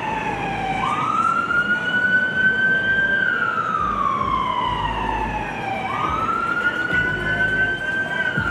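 Fire apparatus siren sounding a slow wail: the tone climbs quickly about a second in, rises slowly, then falls gradually and climbs again about six seconds in, a cycle of roughly five seconds.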